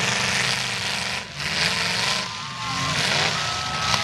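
Demolition derby cars' engines running and revving in pitch as they jostle on dirt, with a single sharp bang near the end as two of the cars meet.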